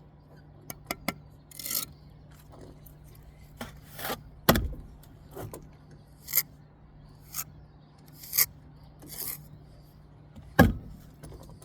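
Steel brick trowel scraping and spreading mortar on brick, in separate short strokes every second or two, with two heavier knocks, one about halfway through and one near the end.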